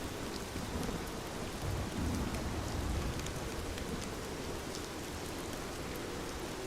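Steady rain with scattered sharp drop ticks, and a low rumble of distant thunder swelling between about two and three seconds in.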